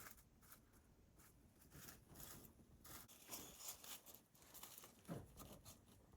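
Near silence: faint, scattered rustles and small clicks.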